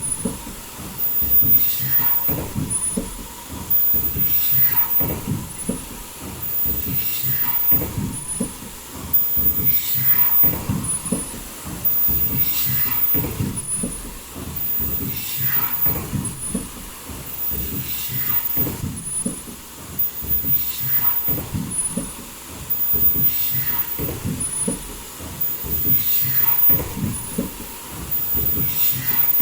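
Foldable N95 mask production line with automatic valve welding running in regular cycles: a steady mechanical clatter, with a short high-pitched whine that repeats about every two seconds.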